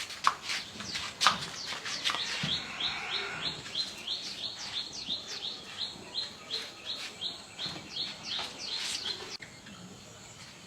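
A bird chirping in a quick, even series of short calls, between two and three a second, that stops near the end. A few sharp clicks come in the first couple of seconds.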